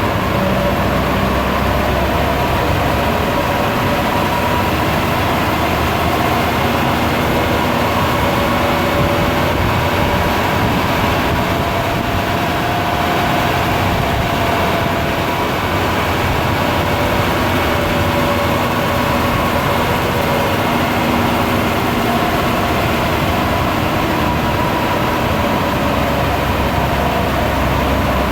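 Volkswagen Golf 6 GTD's 2.0 TDI four-cylinder turbodiesel running at a steady speed, a constant hum with no revving up or down.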